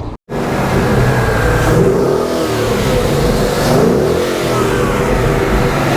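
Ford Mustang GT's 5.0-litre V8, stock and untuned with the factory exhaust, being revved repeatedly, its pitch rising and falling several times.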